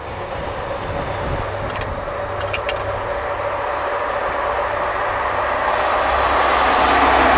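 Electric locomotive hauling Corail Intercités coaches approaching on an electrified main line, its running noise growing steadily louder over a low rumble and a steady hum. A few light clicks come around two seconds in.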